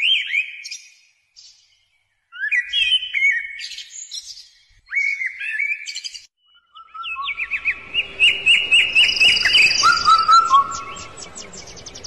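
A songbird singing: short phrases of rising chirps with brief pauses between them, then a fast run of repeated chirps, about four a second, and a few lower notes near the end.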